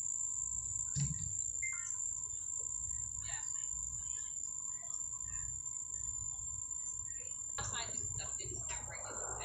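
Insects trilling steadily at a high pitch, with a few short, faint bird chirps scattered through. A low rumble gets louder about three quarters of the way in.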